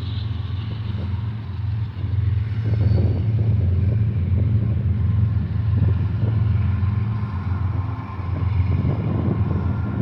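Long mixed manifest freight train rolling past: a steady low rumble of wheels on rail with scattered clanks and rattles from the cars, growing louder about two seconds in.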